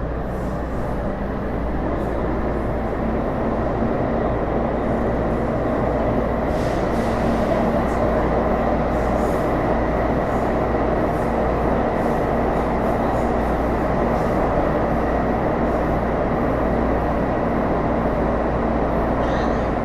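Running noise inside a Taipei Metro C301 metro car moving steadily at speed: a dense rumble of wheels on rail with a steady low hum and a faint, steady high whine.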